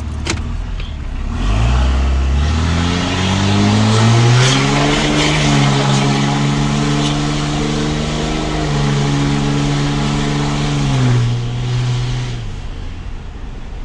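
A 2005 Dodge Cummins 5.9 inline-six turbo diesel with a full 5-inch turbo-back straight pipe and no cat or muffler, heard from inside the cab. It is really loud as it revs up under acceleration and then holds a steady drone. The pitch steps down once partway through and rises again, and the engine note falls away near the end as the throttle comes off.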